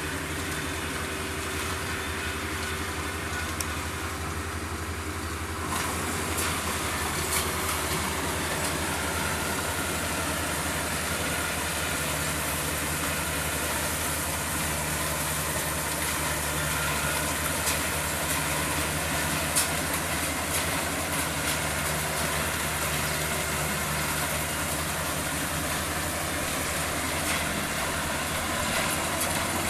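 Kubota DC-35 combine harvester's engine running steadily. About six seconds in the sound grows fuller and brighter, and from about twelve seconds a higher hum joins in.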